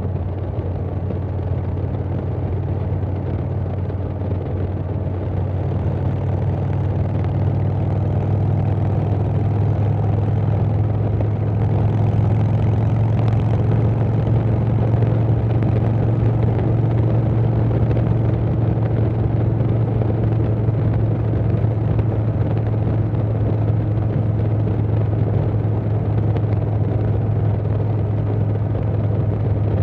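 2020 Harley-Davidson Softail Standard's Milwaukee-Eight 107 V-twin running steadily at road speed through a Vance & Hines Big Radius 2-2 exhaust, with wind noise. It grows a little louder about five seconds in, then holds steady.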